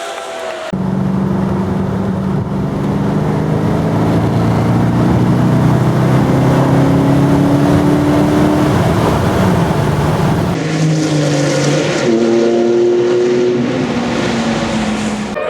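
Supercar engine running loud, its pitch rising slowly as it accelerates and falling back about nine seconds in. At about ten and a half seconds the sound cuts abruptly to another engine running.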